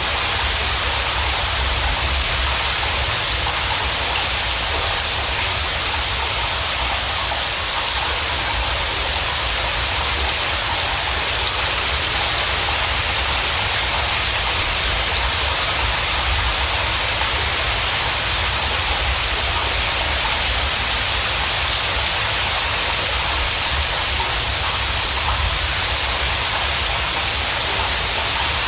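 Steady rain falling, a constant even hiss with a low rumble underneath and no let-up.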